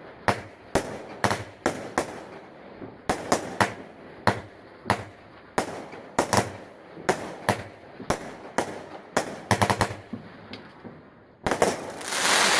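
Fireworks going off: a run of sharp, irregular bangs about two a second, a quick rattle of rapid shots, then a dense crackling burst near the end.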